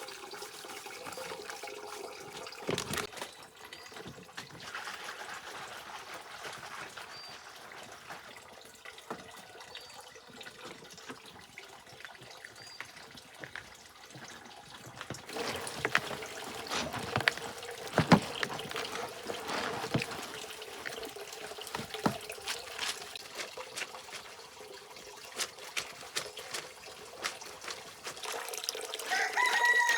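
Water trickling and splashing, with scattered clicks and knocks from handling, busier in the second half.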